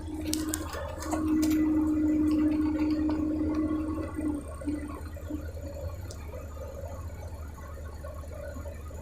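Logging machine's diesel engine running with a steady low drone. A loud, steady hydraulic whine sets in about a second in, holds for about three seconds, then breaks up and fades, with a few sharp clicks near the start.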